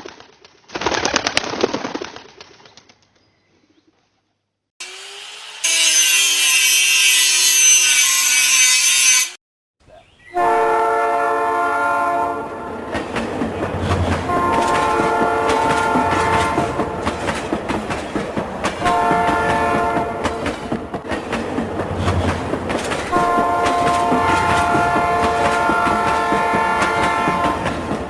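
Train passing with rails clattering; its multi-tone horn sounds four times, the last blast the longest. Before the train, a short rattling burst and a few seconds of loud hiss with a rising tone.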